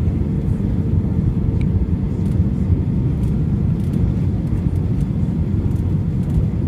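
Steady low rumble of an airliner's engines and airflow heard inside the passenger cabin during a landing, with a faint steady hum in the first few seconds and scattered light clicks and rattles of the cabin.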